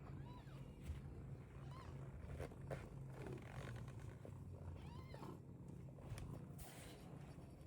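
British Longhair cat purring steadily, with a few soft, short mews.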